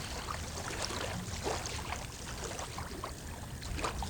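Water splashing and lapping in a steady, irregular wash of small splashes, over a low rumble of wind on the microphone.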